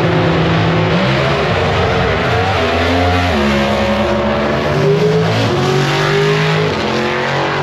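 Two Pro Stock drag cars make a full-throttle pass, their naturally aspirated 500-cubic-inch V8s running at very high revs. The engine pitch climbs and then drops back at each gear shift, several times over the run.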